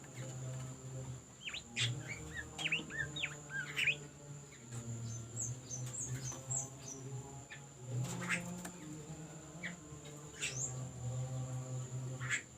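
A bimoli songbird singing in quick, sharp chirps and fast sweeping notes, in irregular bursts. Under it runs a steady high-pitched whine and a low hum.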